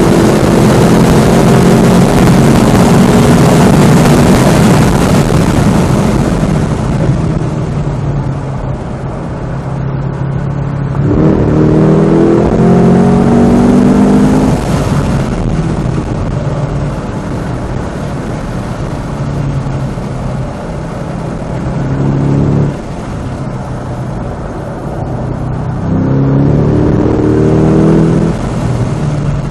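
Cadillac CT5-V Blackwing's supercharged 6.2-litre V8 being driven hard on a race track: under full load at first, then easing off, then pulling up through the revs again about eleven seconds in and once more near the end, each pull cut short by a lift or shift. Wind and tyre noise run underneath.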